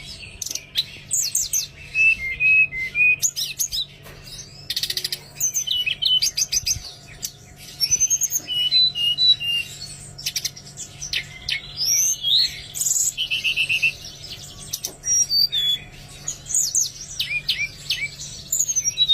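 Songbird singing and chirping: many short whistled notes, quick sweeps and rapid trills, in bursts one after another.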